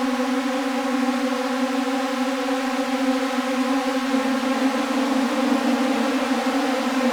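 Elektron Syntakt synthesizer sounding a sustained, buzzing drone patch made to imitate a swarm of bees, its tone shifting a little about four seconds in.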